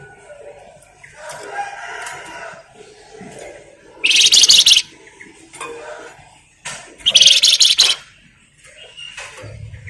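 Flamboyan songbird calling: soft chattering, then two loud, harsh, rapid rattling bursts about four and seven seconds in, each under a second long.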